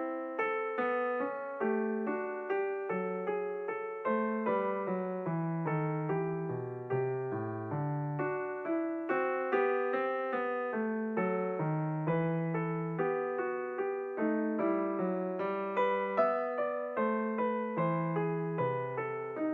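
Background piano music: a calm melody of gently struck notes, each fading before the next, with a lower line underneath.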